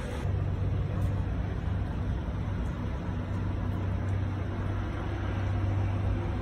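Steady rain falling, an even hiss, over a low steady hum that starts about a third of a second in.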